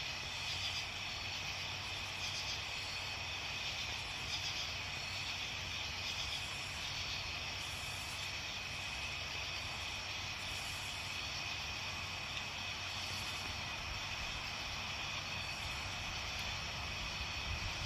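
Campfire burning with a steady hiss and scattered soft crackles every second or few.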